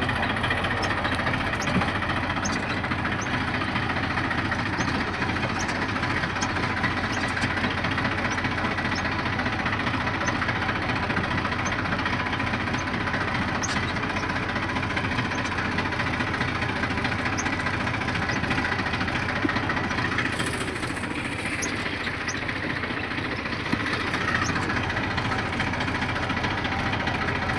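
Deutz-Fahr tractor engine running steadily.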